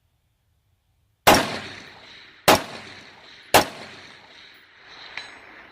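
Three rifle shots about a second apart from a 20-inch-barrelled 5.56 AR-15 precision rifle with a muzzle device. Each is a sharp crack followed by a long fading echo.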